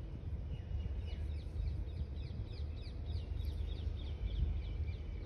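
Small birds chirping, many short falling chirps a few times a second, over a steady low rumble of wind or handling noise on the microphone.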